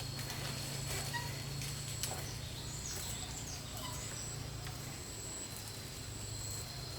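Rural outdoor ambience: a steady high-pitched insect drone with a few faint bird chirps and a couple of light knocks.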